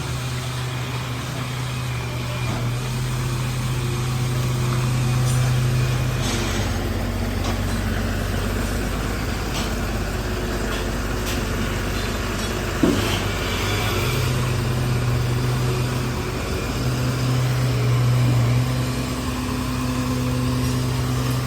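Truck engine running while the truck manoeuvres, with a steady hum that fades for several seconds in the middle and then comes back. A single sharp knock about thirteen seconds in.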